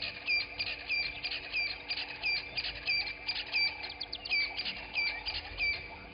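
A bird calling a fast, rhythmic run of sharp high notes, about three a second, over fainter chirping of other birds in the morning chorus.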